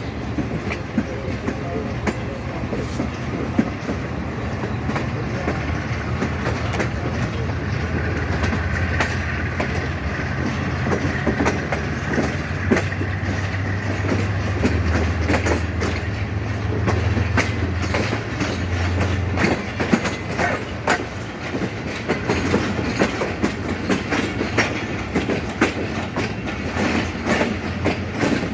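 Passenger train rolling over rail joints and points: irregular clicks and clacks from the wheels over a steady low rumble.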